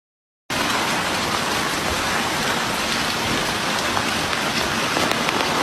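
Steady, dense hiss of water with fine patter running through it, starting abruptly about half a second in and cutting off suddenly at the end.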